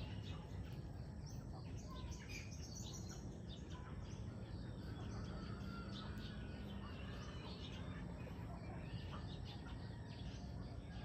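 Small birds chirping and calling, many short chirps scattered throughout, over a steady low rumble.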